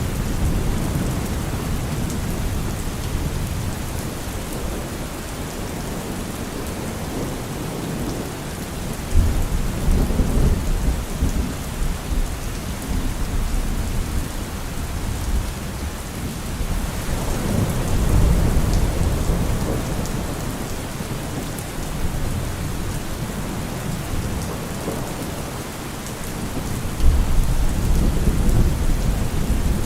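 Steady rain with thunder rolling in low rumbles that swell about nine seconds in, again around seventeen seconds, and near the end.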